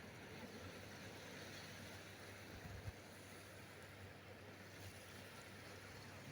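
Faint, steady wash of ocean surf, with one small tap a little before the middle.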